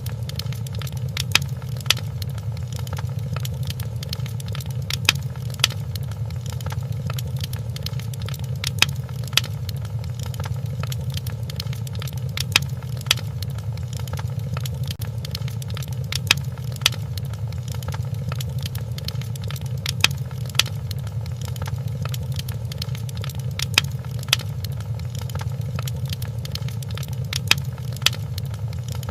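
Wood fire crackling in a fireplace: sharp, irregular pops every second or so over a steady low rumble of the burning fire.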